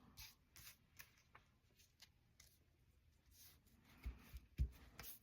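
Quiet paper-crafting handling: faint scattered clicks and paper rustles, with a couple of soft knocks on the desk near the end.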